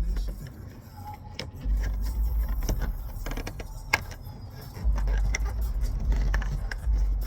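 Scattered clicks and light metallic rattles of hand work on a truck door, over a low rumble that comes and goes in long stretches.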